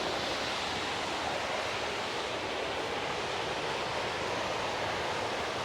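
Steady rushing of a waterfall and its river, an even, unbroken noise of falling water.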